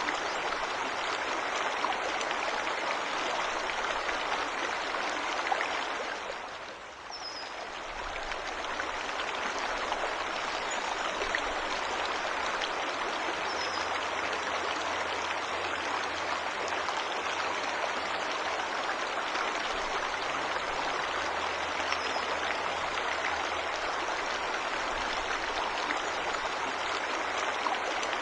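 Waterfall and stream water rushing steadily, briefly fading and coming back about seven seconds in. A few faint, short, high bird chirps sound over it.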